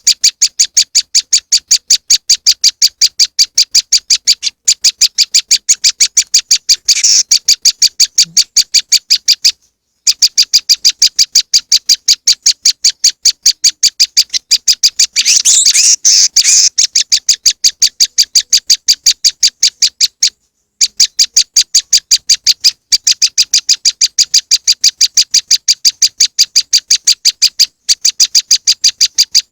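Prenjak lumut (moss wren) call used as a bird lure: a fast, steady series of sharp high chip notes, about five a second, broken by a few brief pauses and with a denser burst of chattering about halfway through.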